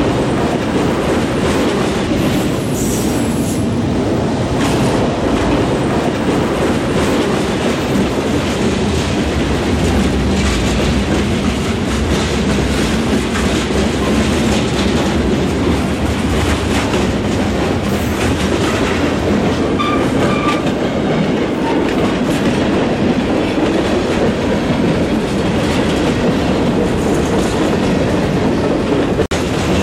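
Freight cars (autoracks, tank cars and covered hoppers) of a passing train rolling by: a steady, loud rolling noise of steel wheels on rail.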